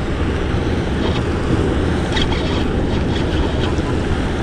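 Wind buffeting the microphone over water slapping and sloshing against a small boat's hull: a steady rumble with scattered small splashy ticks.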